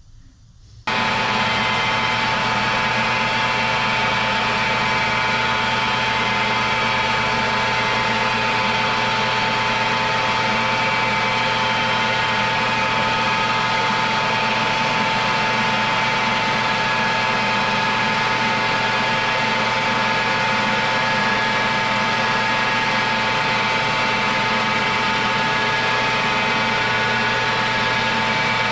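Metal lathe running steadily. It gives a constant whine made of several steady tones over a noisy hum, and comes in abruptly about a second in.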